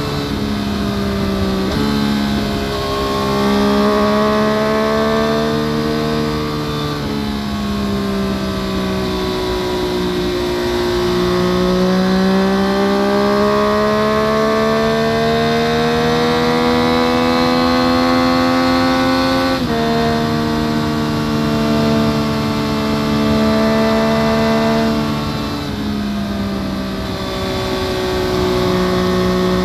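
A 2014 Yamaha FZ-09's three-cylinder engine, through an Akrapovic full-system exhaust, pulling on the road and heard from under the seat. The engine note sinks slightly, then climbs steadily for about eight seconds. It drops suddenly in pitch at gear changes about two seconds in, two-thirds of the way through and near the end.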